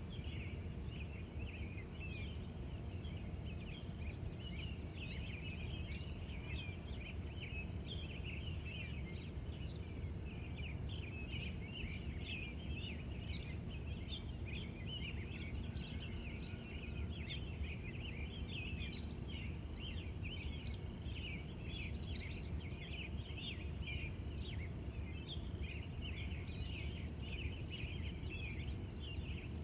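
Pre-dawn chorus of crickets: a steady, fast-pulsing high trill with a busy layer of short high chirps over it. A brief, higher bird call sounds once about two-thirds of the way through, over a low steady rumble.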